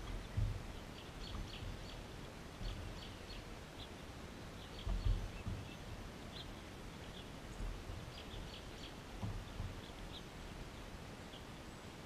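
Faint, short bird chirps scattered throughout over steady outdoor background noise, with a few low thuds on the microphone about half a second in, about five seconds in and near nine seconds.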